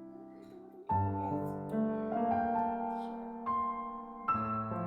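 Slow, soft piano music: chords struck about once a second and left to ring and fade.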